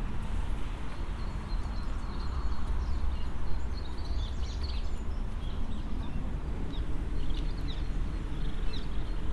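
Outdoor ambience of a steady low rumble, with small birds chirping intermittently from about four seconds in.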